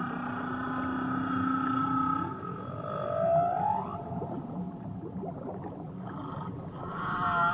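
Whale song underwater: a long low moan held for about two seconds alongside a higher steady tone, then a slow upward sweep climbing high, and a new wavering call starting near the end, over a steady low wash of water noise.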